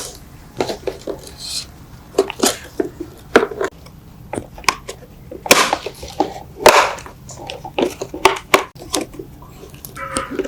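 Irregular sharp clicks and knocks of hand work on parts, with a couple of short scraping sounds about halfway through.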